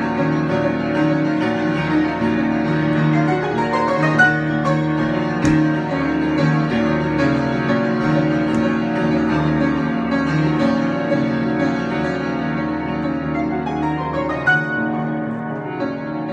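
Instrumental keyboard improvisation with a piano-like sound: sustained chords over a steady low line, with a quick rising run of notes about four seconds in and again near the end.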